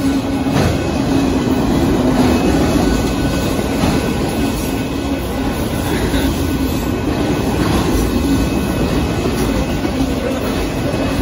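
Union Pacific freight train of enclosed autorack cars rolling steadily past, steel wheels rumbling and clattering on the rails, with a steady low tone running through the rumble.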